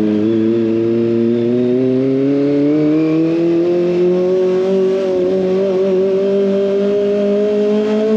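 Kawasaki ZX25R's 250 cc inline-four engine running through an SC Project exhaust, its pitch climbing slowly for about five seconds as the bike picks up speed, then holding steady.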